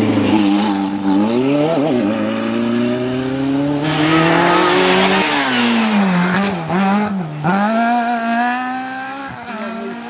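Rally car engine revving hard through a stage, its pitch climbing and dropping sharply several times as the driver shifts gears and lifts off. A burst of rushing tyre noise comes about four seconds in.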